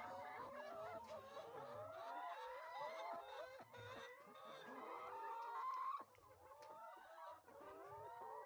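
A flock of laying hens clucking and calling, many short overlapping calls at once. About five to six seconds in, one louder drawn-out call rises and then breaks off suddenly.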